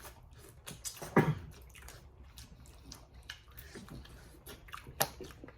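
Wet mouth sounds of eating crawfish: chewing and lip smacking with scattered sharp clicks and cracks, as when shells are broken and sucked. A louder wet sound comes about a second in, and another near the end.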